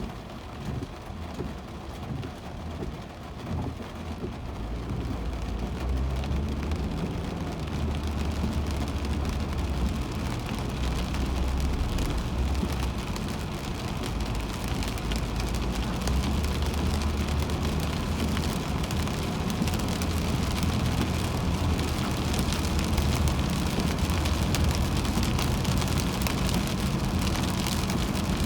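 Car driving in heavy rain: rain on the car and tyres on the wet road make a steady rush over a low road rumble. The sound grows louder about five seconds in, then holds steady.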